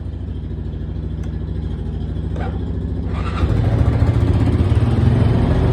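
Cold Honda off-road vehicle engine running just after a cold start, smoking heavily, at a steady idle that then picks up speed and gets louder about three and a half seconds in. The owner thinks the idle is set too high.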